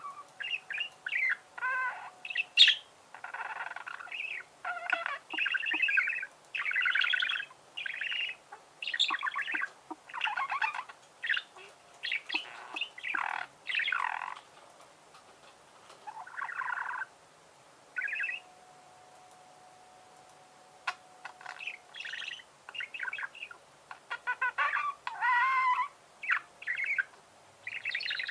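Budgerigars chattering and warbling: quick runs of short, squeaky chirps and trills, with a lull of a few seconds about two thirds of the way through.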